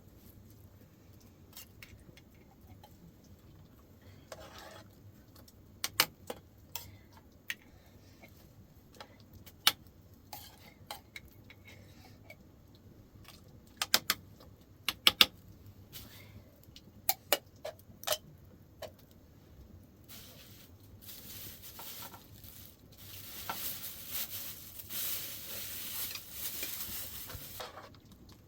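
Scattered clinks and knocks of pots, dishes and metal utensils being handled, then a steady hiss that rises about twenty seconds in and stops just before the end.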